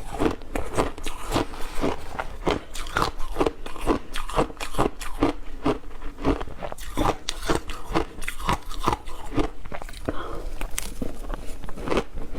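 Ice being bitten and chewed close to the microphone: a steady run of sharp crunches, about two or three a second.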